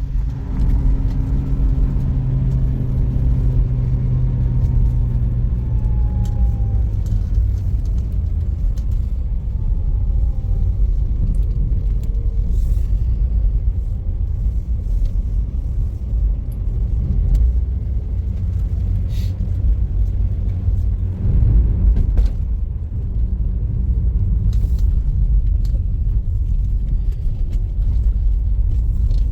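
A car driving: steady engine and road rumble. The engine hum sinks a little in pitch over the first few seconds, and there is a knock about 22 seconds in.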